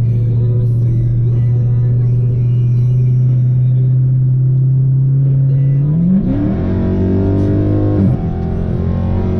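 Car engine idling steadily, then revved up about six seconds in, held, and let back down about two seconds later.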